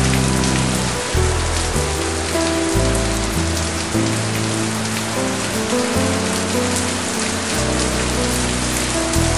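Steady heavy rain falling on hard surfaces, an even hiss, with held low musical chords underneath that change every second or so.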